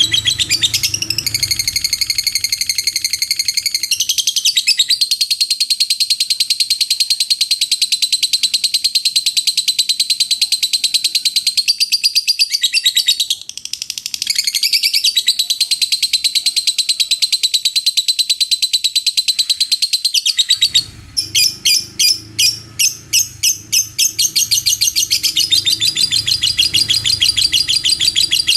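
Lovebird singing a long 'ngekek', a fast, high-pitched chattering trill that runs almost without a break. It pauses briefly about 13 seconds in and breaks into separate, choppier notes for a few seconds a little past 20 seconds.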